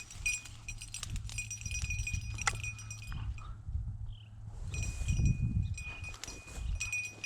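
Hunting dog's collar bell jingling on and off as the cocker spaniel works through cover, with a low rumble underneath that is loudest about five seconds in.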